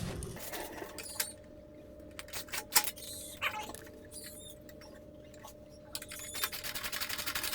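Scattered light clicks and taps of hand tools and metal hitch parts being handled, with a quicker run of small ticks near the end. A faint steady hum sits underneath.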